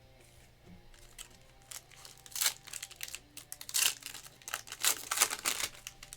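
Plastic trading-card pack wrapper crinkling and tearing in irregular rustling bursts, loudest in the second half.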